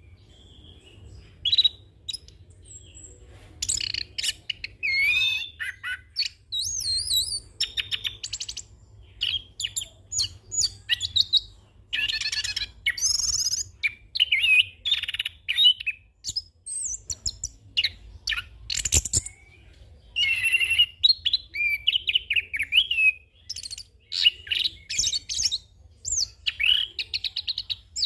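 Orange-headed thrush (anis kembang) singing a long, varied rolling song full of imitated calls: quick whistled phrases, gliding notes, trills and fast rattles, with short pauses between phrases. A single brief knock comes about two-thirds of the way through.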